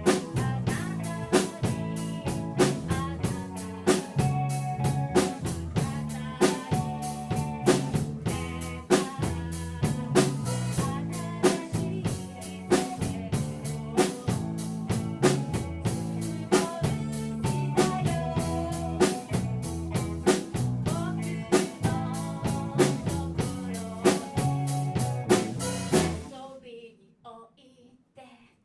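A live rock band plays with a steady drum-kit beat, bass and electric guitar. About 26 seconds in, the whole band stops abruptly and leaves a short near-silent break.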